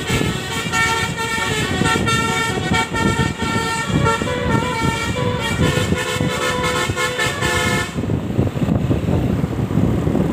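Horns sounding over steady traffic rumble; the horns stop about eight seconds in.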